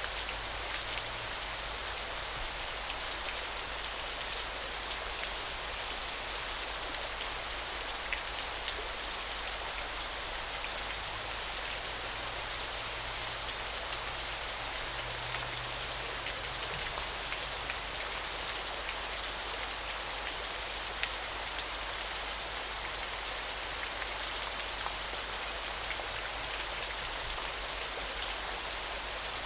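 River water running steadily as a dense, even splashing hiss. Over it, a thin high-pitched trill repeats in bursts of one to two seconds through the first half, and a louder, broader one comes near the end.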